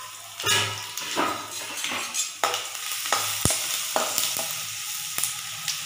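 Garlic, curry leaves and red chillies sizzling in hot coconut oil in a steel kadai, turmeric just added. A metal slotted spatula stirring the mix scrapes and knocks against the pan several times, one sharp knock about three and a half seconds in.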